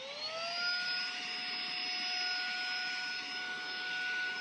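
SAKER 3-in-1 mini handheld vacuum's brushless motor spinning up and then running at a steady high-pitched whine over the rush of air being sucked in.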